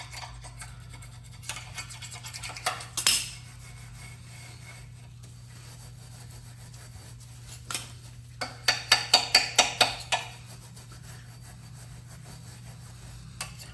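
Hand scraping and scrubbing on the metal parts of a Graco 5900 airless sprayer to clean off dried paint. Scattered scrapes and clinks give way, a little after the middle, to a quick run of about ten scrubbing strokes, with a steady low hum underneath.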